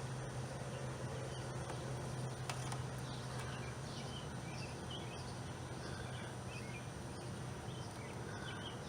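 Outdoor background: faint, scattered bird chirps over a steady low hum that fades about seven seconds in.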